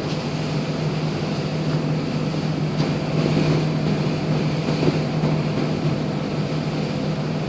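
Ferry's engine running with a steady low hum under a wash of wind and water noise.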